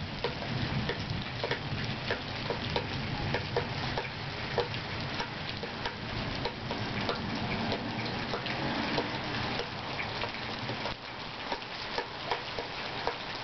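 Rain falling steadily, with frequent irregular drips ticking onto a hard surface close by.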